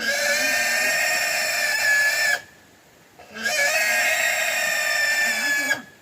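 Loud, long, high-pitched farm-animal calls, each held steady for about two seconds and dropping in pitch at its end, repeated twice with a short pause between and a third beginning just after.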